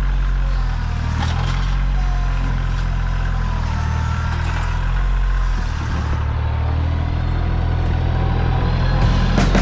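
Kioti CK2610 compact tractor's three-cylinder diesel engine running steadily, with a few sharp clanks near the end.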